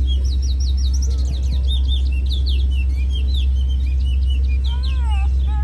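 Birds chirping in a dense run of quick, high chirps, with a few lower arched calls near the end, over a steady low rumble.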